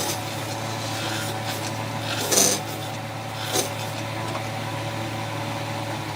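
Woodworking power tool's electric motor running with a steady hum. A few short rasping strokes on wood cut in, the loudest about two and a half seconds in.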